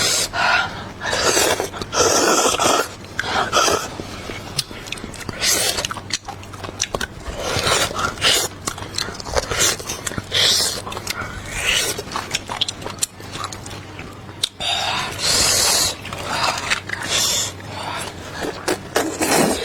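A person eating close to the microphone: irregular bites and chewing with scraping mouth sounds and breaths through the nose.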